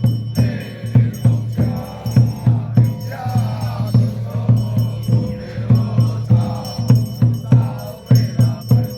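Xiaofa ritual masters chanting in unison over a steady drum beat, about two to three beats a second.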